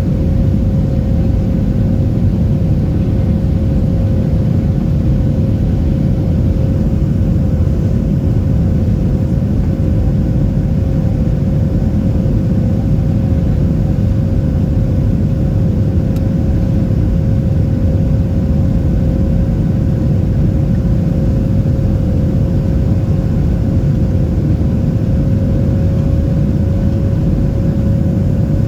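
The CFM56-7B turbofan engines of a Boeing 737-700 running steadily at high thrust, heard from inside the cabin as a loud, even rumble with a steady hum tone running through it.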